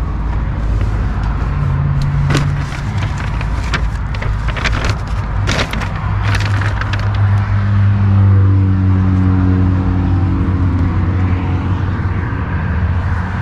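A vehicle engine running with a steady low rumble, with a run of clicks and knocks in the middle.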